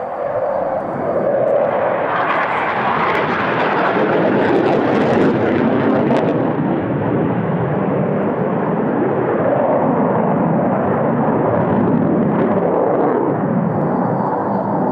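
Jet aircraft engine noise during a flying display: a loud rushing jet sound that swells about two seconds in and stays loud throughout.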